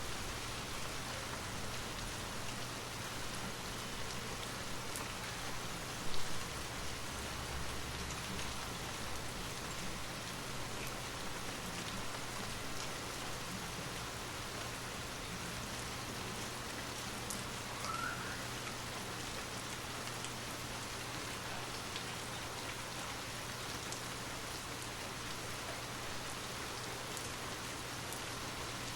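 Steady rain falling on a surface, an even hiss, with a low steady hum underneath. There is a brief louder sound about six seconds in.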